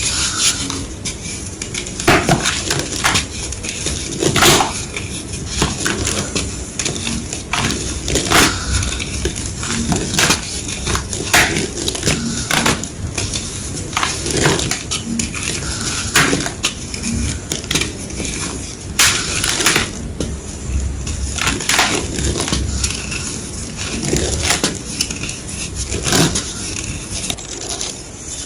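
A big slab of gym chalk crunching as it is crushed into powder: irregular sharp crunches, roughly one or two a second, some longer and crumbly.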